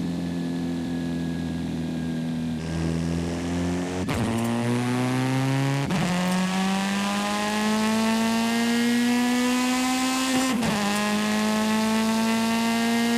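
Video-game car engine accelerating through the gears, its pitch climbing steadily and dropping sharply at each of three upshifts, about four, six and ten and a half seconds in.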